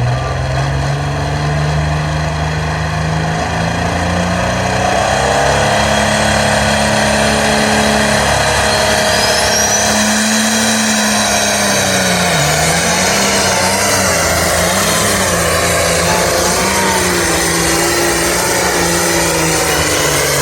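Single-turbo, 510-cubic-inch pulling tractor engine at full throttle dragging the sled down the track. Its pitch climbs over the first few seconds and holds high, then sags about twelve seconds in and wavers up and down as the load bogs it down.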